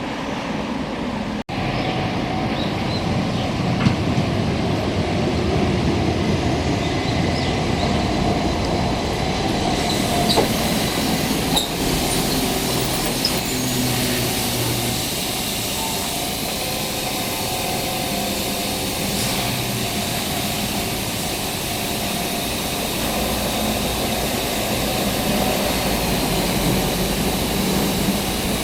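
Keihan Keishin Line electric train running on the rails: a steady rumble, with a few sharp clicks from the wheels over the track.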